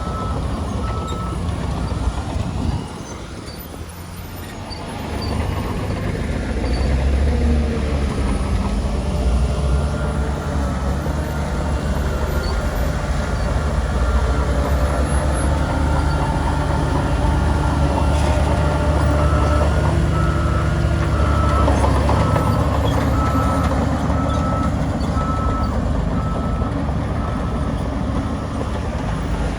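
Heavy diesel earthmoving machinery running, its engine dipping briefly and then labouring harder under load. A reversing alarm beeps steadily near the start and again through the middle and later part.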